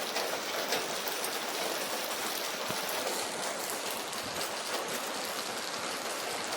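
Steady rain falling: a continuous even hiss dotted with the taps of single drops hitting a surface.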